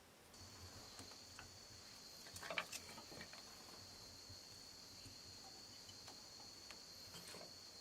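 Insects make a steady, high-pitched drone that starts just after the opening. A few soft clicks or rustles come about two and a half seconds in, and again faintly near the end.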